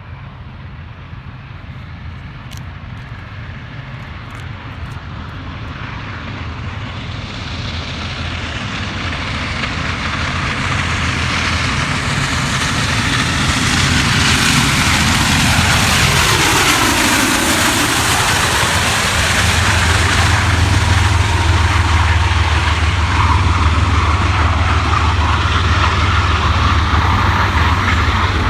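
Union Pacific 4014 Big Boy, a 4-8-8-4 articulated steam locomotive, and its train approaching and passing: the rumble grows steadily louder for about fourteen seconds, a falling sweep in pitch marks the locomotive going by, and a steady loud low rumble of the passing train follows.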